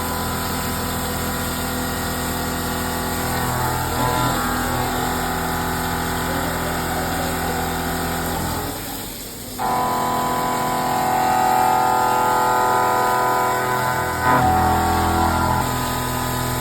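CNC machining centre running: a steady machine hum with several held whining tones. About nine seconds in the sound dips for a moment, then a higher, brighter whine starts up, and a short louder burst comes near the end.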